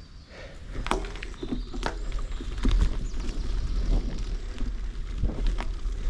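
Bicycle rolling over a rough trail: scattered clicks and rattles over a low rumble of wind on the microphone, getting louder about a second in.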